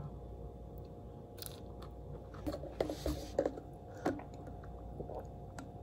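Close-miked mouth sounds of chewing a soft bun, with scattered wet clicks. About three seconds in comes a short sip of iced americano through a straw.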